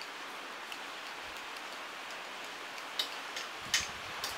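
Steady hiss of heavy rain, with a few sharp clicks near the end.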